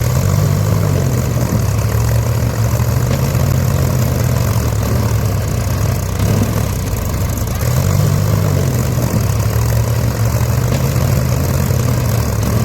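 Tractor engine running steadily under load, its low note rising briefly twice, near the start and about two-thirds of the way through.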